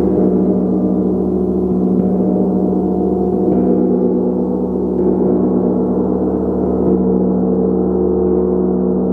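Gong played with soft mallet strokes about every one and a half to two seconds, keeping up a loud, continuous wash of overlapping ringing tones.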